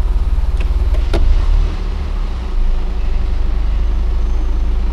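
Honda Fit's four-cylinder engine idling in Drive under load, heard from inside the cabin, with a single click about a second in and a short dip in level soon after. The fuel pressure is sagging from a failing fuel pump, the condition in which this engine sometimes stalls.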